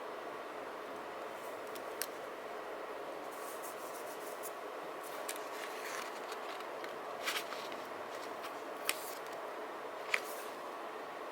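Small sharp clicks and ticks from handling paper journaling supplies at a desk, about five louder ones spread out, over a steady background hiss.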